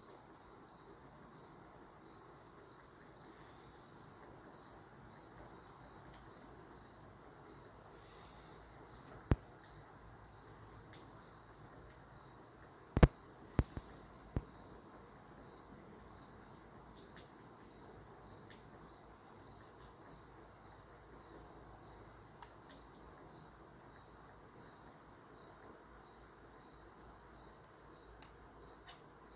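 Woodpecker pecking a tree branch: a few sharp, isolated taps, one about a third of the way in and a quick cluster of four or five near the middle. Behind them, a steady high-pitched trill of insects, like crickets, pulses evenly the whole time.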